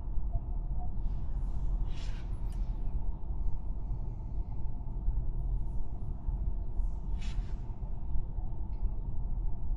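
Steady low road and tyre rumble inside a Tesla's cabin while driving, with no engine note. Two brief hissing sounds stand out, about two seconds in and again about seven seconds in.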